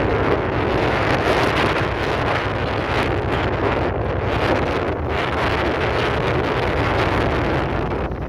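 Wind rushing over the microphone on a moving motorcycle, with the engine's low drone underneath. It comes in suddenly and then holds steady.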